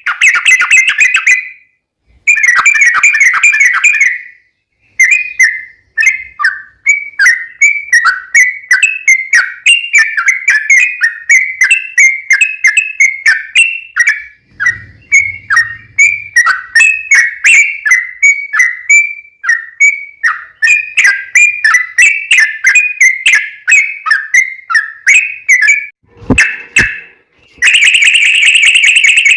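Yellow-vented bulbul (trucukan) singing a long rapid 'ropel' string of short, quick chirping notes, several a second, for about twenty seconds. Denser, fuller song phrases come in at the start and again near the end.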